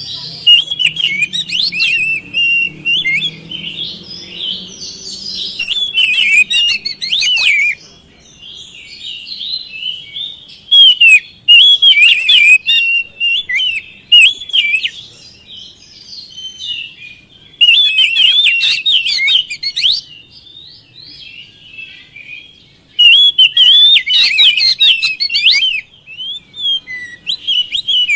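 Oriental magpie-robin (kacer) singing a loud, rapid, varied song of whistles and chattering notes. The song comes in bursts of a few seconds separated by short pauses.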